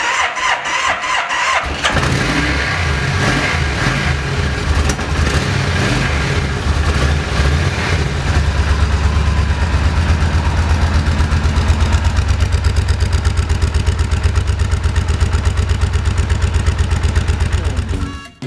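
Motorcycle engine being started: a couple of seconds of cranking, then it catches and runs, settling into a steady, pulsing idle. The sound cuts off abruptly near the end.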